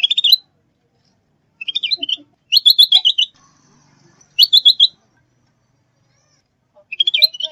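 A bulbul known locally as kutilang zebra or cucak bersisik singing in short phrases of rapid, high chirping notes, five phrases of about half a second each separated by pauses.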